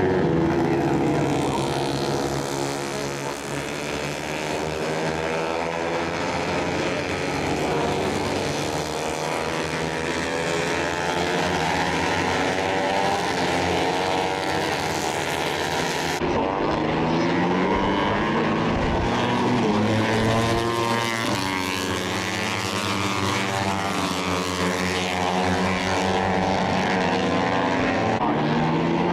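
Several Moto3 race bikes' 250 cc single-cylinder four-stroke engines running at high revs, their pitch rising and falling through gear changes as they pass and overlap. The sound changes abruptly about halfway through.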